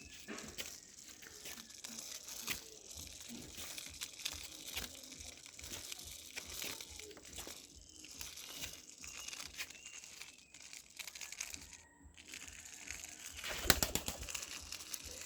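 Toys being handled, with crinkling and rustling and many small clicks and knocks; a louder clatter near the end.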